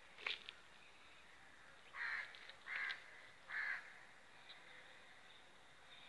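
A bird cawing three times, short calls a little under a second apart, starting about two seconds in. A sharp click comes just before them, near the start.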